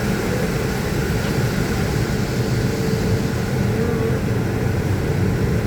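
Automatic car wash machinery running steadily: a constant mechanical drone with a low rumble and a faint, held hum.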